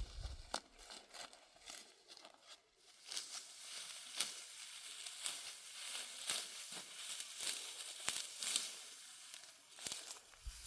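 Dry wheat stalks crackling and rustling, with many crisp snaps.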